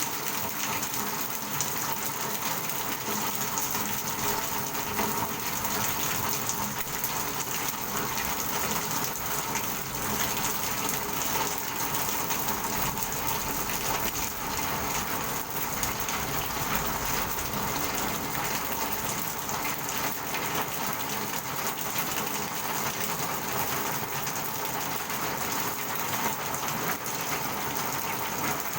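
Steady rain falling, a dense, even hiss of countless drops striking a hard surface, unchanging throughout.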